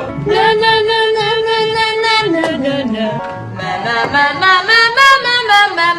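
A voice singing: one long held note, then a slide down in pitch a little past two seconds in, then a run of shorter notes that rise and fall.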